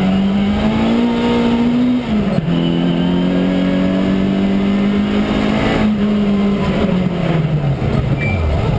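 Citroën Saxo VTS rally car's four-cylinder engine heard from inside the cabin, held at high revs with a brief dip in pitch about two seconds in. The revs fall away near the end.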